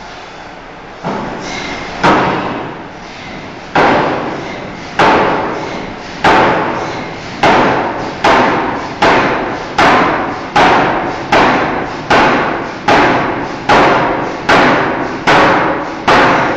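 A forging hammer strikes a steel bar in a rapid series of heavy blows, about seventeen in all, each ringing briefly. The first few come more than a second apart, then they settle into a steady beat of a little more than one blow a second.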